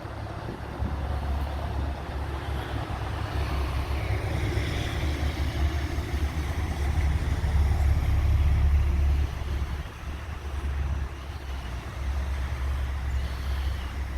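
Freight train of tank cars rolling past with a steady low rumble, loudest about two-thirds of the way through and dipping briefly near the end.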